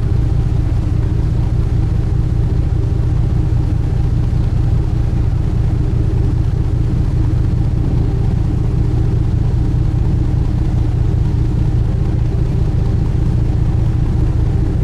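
Sightseeing boat's engine running at a steady cruising drone, a constant low hum with a few steady higher tones above it.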